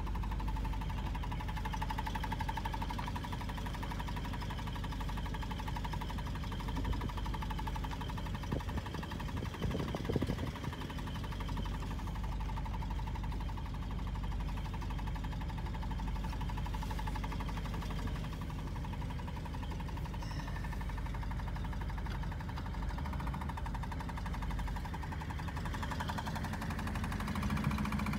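1983 Buick Electra's engine running steadily, shortly after a cold start, as the car moves slowly through snow, heard from the cabin with the driver's door open. There is a brief louder bump about ten seconds in.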